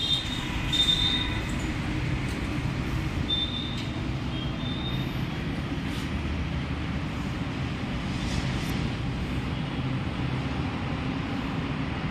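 A jet pump (portable high-pressure washer) running steadily with a low hum and a hiss over it, with a few brief high squeals in the first five seconds.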